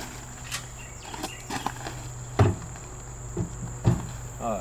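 A steady high insect drone, typical of crickets, under a handful of scattered knocks and steps, about seven spread over a few seconds.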